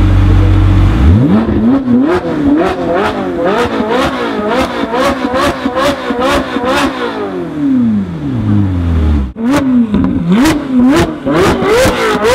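Ferrari 458 Speciale's naturally aspirated V8 through an Fi aftermarket exhaust, idling briefly and then blipped repeatedly, the revs rising and falling about twice a second with sharp cracks and pops from the exhaust. Near the end the revs fall away in one long drop, and after a sudden break the blipping starts again.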